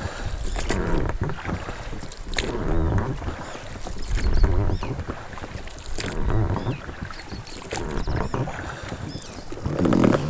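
A small boat on a lake: water moving around the hull with irregular knocks and low thumps, wind on the microphone, and a few short high chirps.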